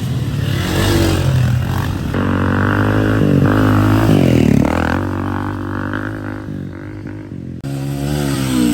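Dirt bike engines running hard, their pitch falling and rising again several times as the riders rev, shift and go by.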